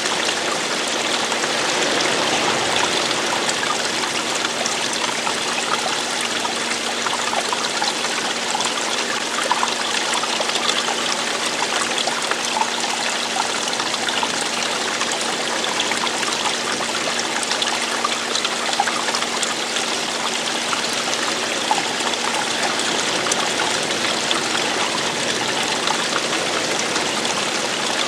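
Running water of a stream flowing steadily, an even rush flecked with small splashes and drips.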